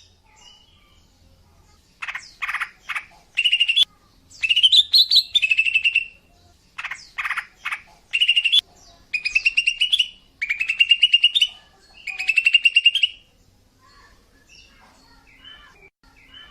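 Female cucak ijo (green leafbird) calling, a lure call for males: after a short pause, about a dozen loud, high chirped phrases, some of quick separate notes and some rising trills, then fainter scattered calls near the end.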